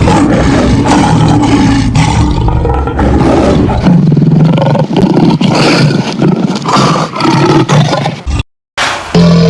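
Spinosaurus creature roars and growls, a loud continuous run of layered animal roars, broken by a brief silence near the end before another sound starts.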